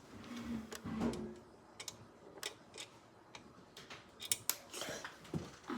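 Scattered, irregular small clicks and ticks of a screwdriver and small screws being handled and fastened into a plastic part.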